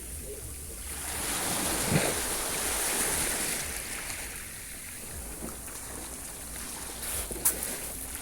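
Sea waves washing in on the shore, swelling about a second in, easing off, and building again near the end, with a brief sharp splash or knock about two seconds in and another near the end.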